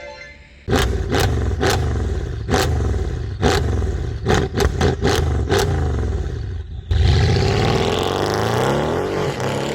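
Performance car engine revving up and down repeatedly, with sharp exhaust pops and cracks between the revs. The sound starts just under a second in, breaks off briefly near seven seconds, then revs again.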